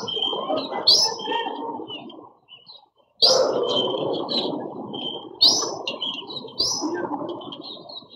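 Birds chirping at a feeder: many short, high chirps in quick succession, with a few sharp clicks, over a steady low rumble that drops away briefly about a third of the way in.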